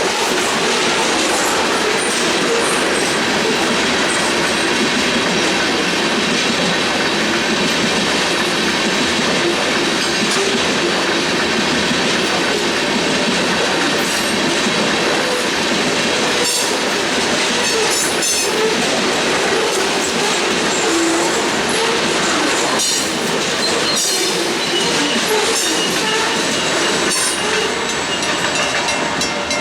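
Freight cars rolling through a grade crossing: a loud, steady rumble and rush of steel wheels on rail, with the clicks of wheels passing over rail joints. Near the end, as the train noise eases, the crossing's warning bell comes through, ringing at an even beat.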